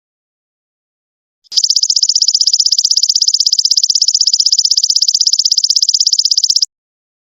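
Golden locust (belalang emas) insect calling: a high, rapidly pulsing buzz that starts about a second and a half in, runs about five seconds and stops abruptly.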